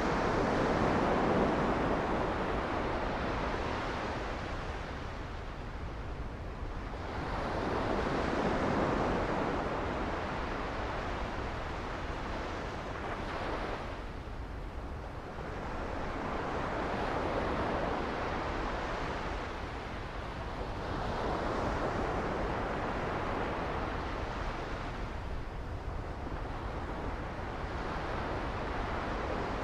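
Sea waves breaking and washing up on a beach, swelling and easing about every six to eight seconds.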